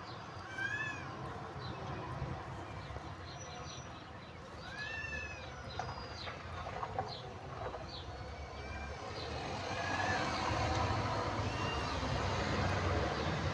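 Cats meowing: several high, arching meows spread out, over a steady low rumble.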